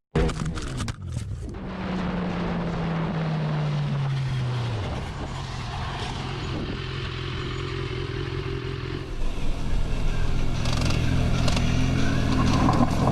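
Motorcycle engine slowing, its pitch falling over a few seconds, then running steadily, with a few knocks and rattles at the start.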